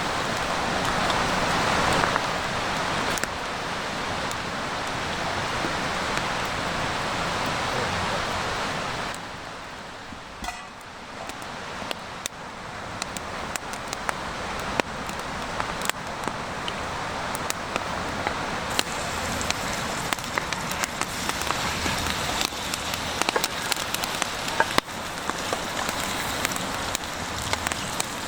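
Campfire crackling with many sharp pops over a steady hiss; the hiss drops away about nine seconds in, and the pops come more often after that.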